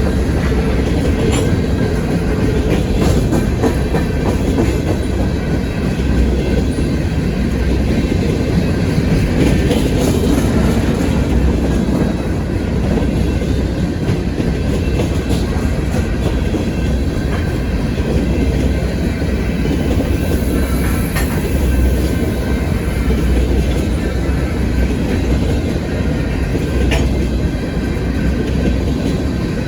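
Freight train cars rolling steadily past, a continuous low rumble with the steel wheels clicking over rail joints throughout.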